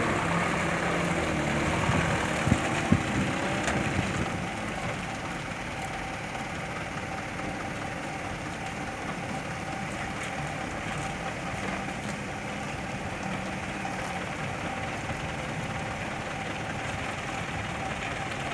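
Truck engine running, easing off over the first few seconds and settling to a steady idle, with two sharp knocks about two and a half and three seconds in.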